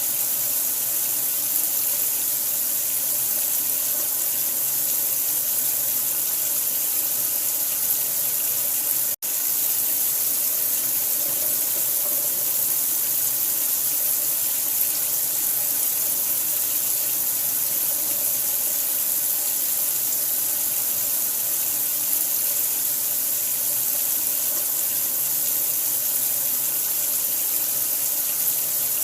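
Steady rush of running water, an even hiss strongest in the high end, used as sleep sound for a newborn. It drops out for an instant about nine seconds in.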